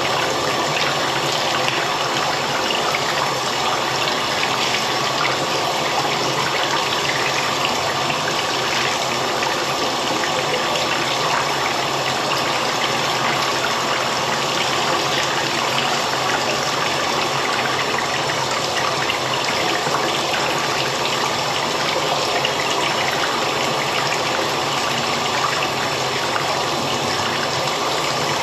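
Steady rushing of running water, unbroken and even.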